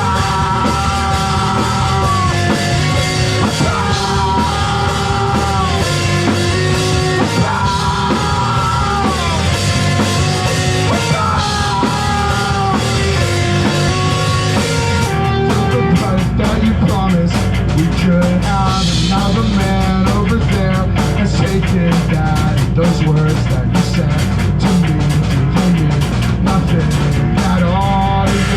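Loud live rock band playing: drum kit and guitars with bending melodic lines. About halfway through, the song shifts into a heavier, denser section with a stronger bass and a quick drum rhythm.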